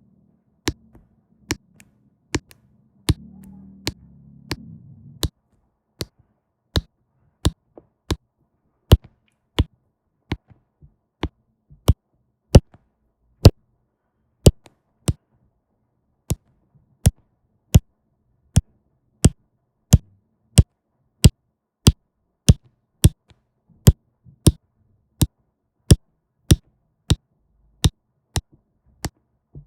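Sharp, short taps about every 0.6 s, keeping a steady rhythm: a diamond painting pen tapping diamonds down onto the canvas one at a time. A faint low hum sounds between about three and five seconds in.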